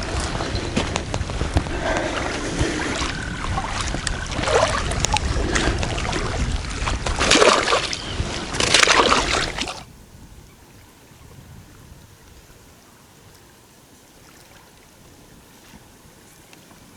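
Wind buffeting the microphone and water lapping at the shore, with two loud gusts about seven and nine seconds in. About ten seconds in it cuts off abruptly to a faint, steady outdoor hiss.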